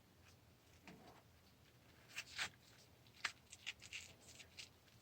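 Near silence with a few faint, scattered clicks and taps of small parts being handled: a screw, nylon washer and solenoid being fitted onto the water feeder valve.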